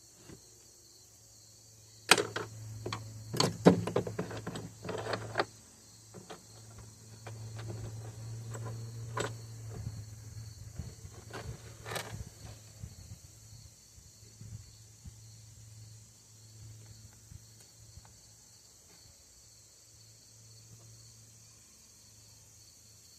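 Clicks, knocks and clatter of chainsaw parts being handled and fitted back together, busiest in the first half and sparser after, over a steady low hum.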